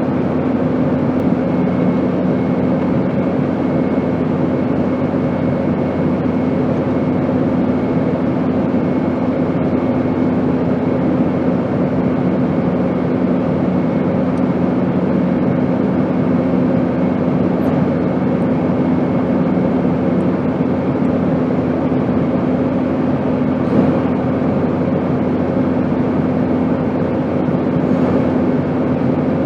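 Steady airplane noise: an even rushing drone with a constant low hum and a fainter high whine.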